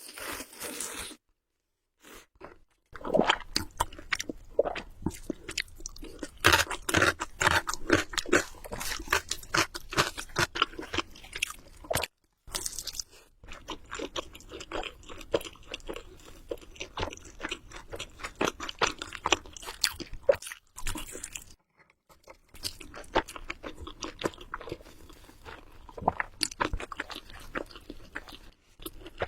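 Close-miked eating of Samyang Buldak carbonara noodles: a run of wet chewing, biting and mouth clicks, broken by a few short silent gaps.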